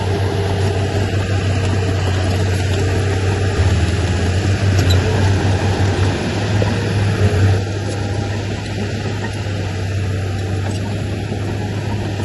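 Heavy diesel earthmoving machine's engine running steadily with a deep hum, a little louder for a few seconds midway.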